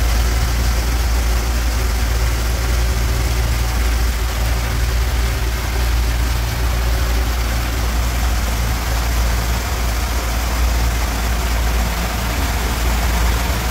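Tour boat's engine running steadily underway: a deep, constant drone with a steady rushing hiss over it.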